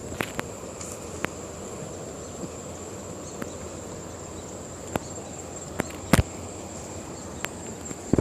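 Insects calling in a steady high-pitched tone over a low outdoor hum, with scattered sharp clicks and one louder knock about six seconds in.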